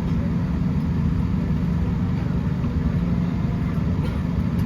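Steady low rumble with a constant hum from a Boeing 787-10 airliner, even throughout with no rise or fall in pitch.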